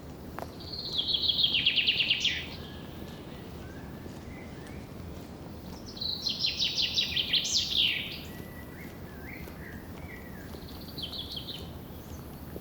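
A songbird sings three phrases of rapid repeated high notes: one about a second in, a longer one around the middle ending in a quick upward sweep, and a short one near the end. Softer calls and a steady low background noise lie beneath.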